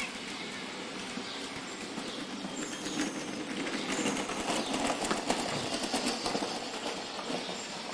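A steady rattling clatter with scattered clicks from a moving ride vehicle rolling along.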